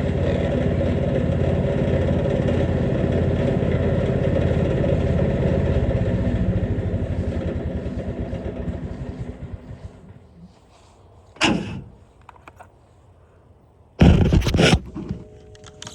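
Jansen GTS-1500 wood chipper's engine running steadily, then shut off about six seconds in and winding down to a stop over the next few seconds; it runs smoothly with the bed knife freshly adjusted and new blades fitted. Two short loud clatters follow, one a little past the middle and one near the end.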